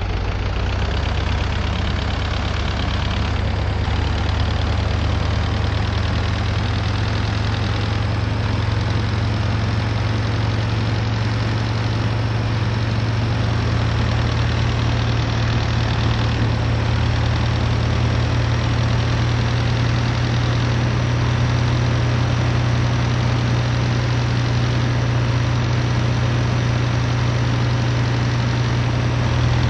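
MAZ-241 city bus engine running steadily, a low even drone with no revving, heard from inside the passenger cabin.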